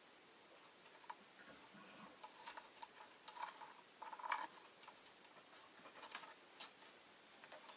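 Faint, scattered small clicks and ticks, with a louder cluster about four seconds in, from a rosy-faced lovebird moving about and pecking in its cage.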